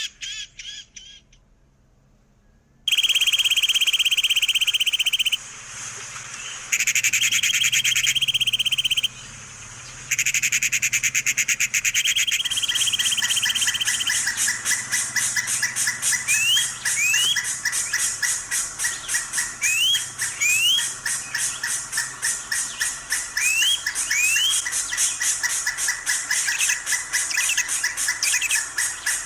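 Parrot calling: three long, harsh screeches of a few seconds each, then fast rhythmic chattering with short rising whistles every few seconds.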